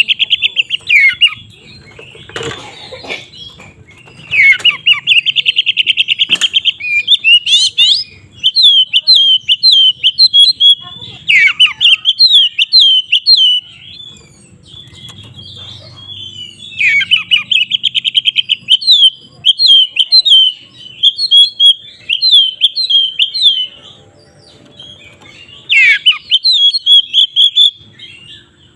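Oriental magpie-robin (kacer) singing loudly in bursts. Fast buzzy trills, the 'konslet' style, alternate with runs of sharp, quickly swept whistled notes, broken by short pauses.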